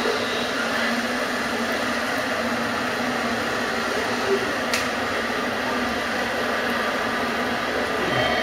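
Steady room noise of an exhibition hall, an even hum and hiss, with a single sharp click about five seconds in.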